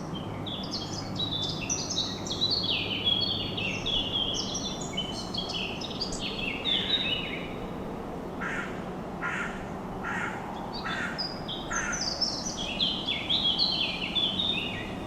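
Birds calling in rainforest ambience: rapid strings of high descending chirps at the start and again near the end, with a run of five short, harsh calls in between, over a steady background hiss.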